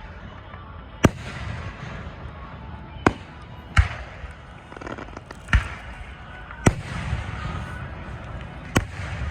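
Distant fireworks display: six sharp booms from aerial shells bursting at irregular intervals, with crackling from the bursts in between.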